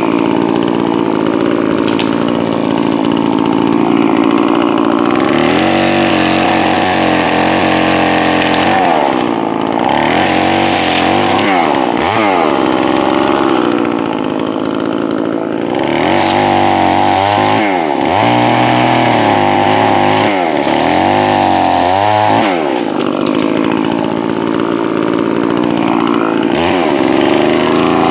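Poulan Pro 4620 two-stroke chainsaw running at high revs, steady at first, then cutting, its engine pitch repeatedly dropping and climbing back as the chain loads up in the wood and is eased off. The saw has just been rebuilt with a new piston and is set rich and run easy for break-in.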